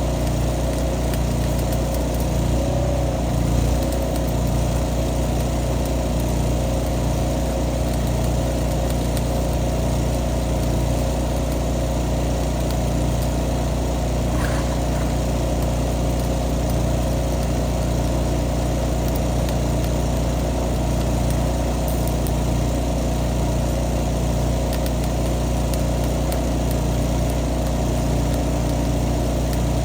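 Skid steer with a forestry mulcher attachment, its engine running steadily at a constant speed.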